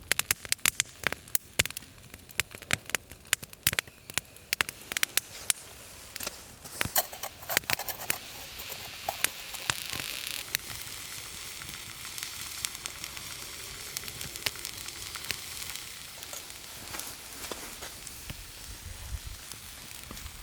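A small wood fire crackling, with dense sharp pops for about the first eight seconds, then a steadier sizzling hiss with only scattered pops.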